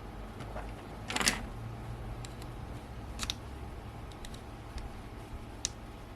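Small clicks and taps from disassembling a zoom lens by hand: a short clatter of parts about a second in, then a few light, separate clicks over a low steady hum.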